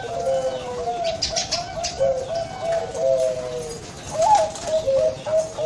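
Zebra dove (perkutut, Bangkok line) cooing: a rolling string of short, soft notes that step between a higher and a lower pitch, with one sharper upturned note about four seconds in. Faint higher chirps come and go above it.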